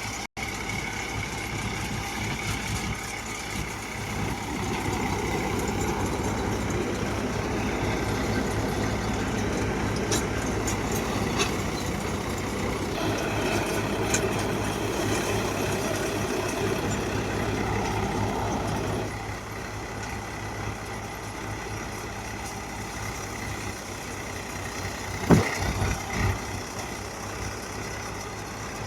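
Powertrac tractor's diesel engine running steadily while it drives a multi-crop paddy thresher. The sound swells louder and fuller from about five seconds in until about nineteen seconds, then settles back, and a single sharp knock comes near the end.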